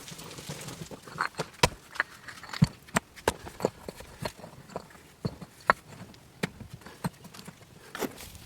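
A series of sharp, irregular clicks and knocks, about one or two a second, some louder than others.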